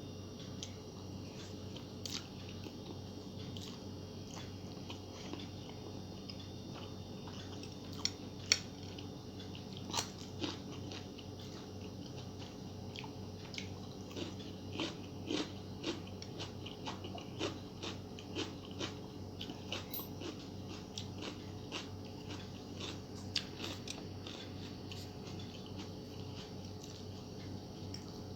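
Close-up eating sounds: crisp bites and crunchy chewing, with a few sharp loud bites about eight to ten seconds in, then a long run of small crunches, over a steady low hum.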